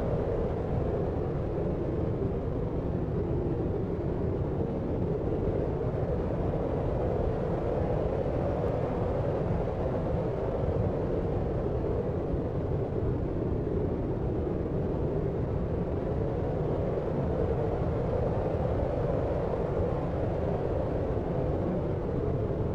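Steady deep noise for sleep: an even, low rumbling hiss with little treble, unchanging throughout.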